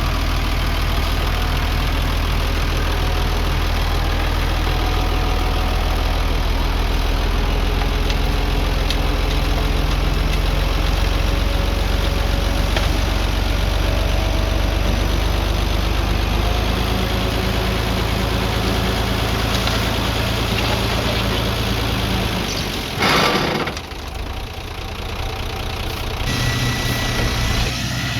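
Heavy earthmoving machine's diesel engine running steadily with a deep rumble. About four-fifths of the way through there is a short loud noise, and the engine sound changes soon after.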